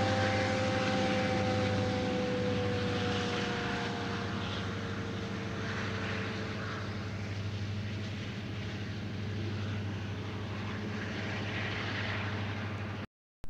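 A diesel freight locomotive running past with a steady engine drone over wheels rolling on rail. A two-note whine slowly drops in pitch over the first several seconds as it moves away. The sound cuts off abruptly near the end.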